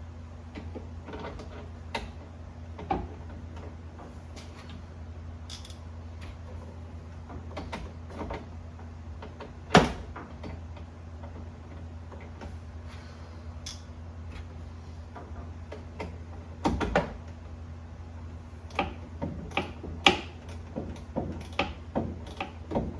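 Hand tools working on a radiator hose clamp: scattered metallic clicks and knocks, one sharp knock about ten seconds in and a quicker run of clicks near the end, over a steady low hum.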